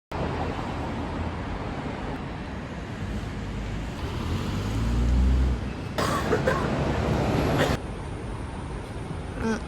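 Steady rumble of a moving vehicle, with a deeper hum swelling about four to five seconds in and a louder noisy stretch from about six to nearly eight seconds.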